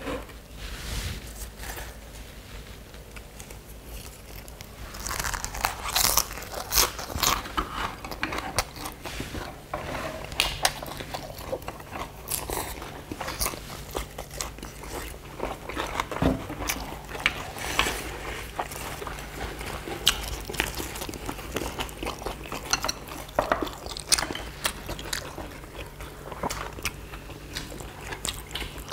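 Close-miked crunchy biting and chewing of fresh lettuce-leaf wraps (ssam) filled with duck bulgogi and rice. Quieter for the first few seconds, then a dense run of crisp crunches and chews from about five seconds in.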